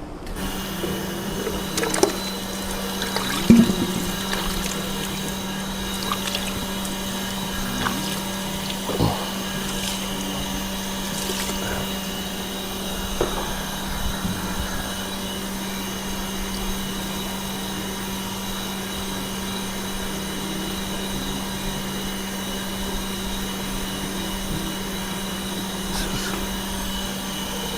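Electric pump switched on, then running with a steady hum and hiss, with a few scattered clicks and knocks.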